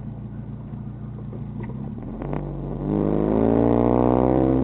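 2004 Lancer Ralliart's freshly turbocharged 2.4-litre four-cylinder idling, then about three seconds in it gets louder and the engine note climbs steadily as the revs rise.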